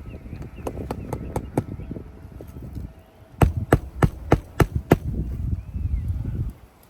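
Hammer blows on a roof during a shingle repair: a run of six quick, even strikes, about three a second, a few seconds in, with lighter taps and scraping before them.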